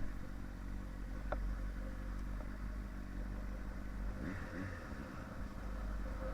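Engine of a 2005 Yamaha inline-four sportbike running with a steady low hum, its pitch wavering briefly about four seconds in.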